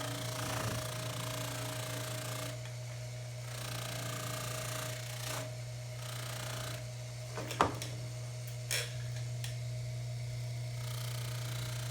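Baldor 353T dental lathe running steadily with a low hum while a pipe stem is buffed on its wheel with tripoli compound. Two sharp knocks come past the middle, about a second apart, the first the louder.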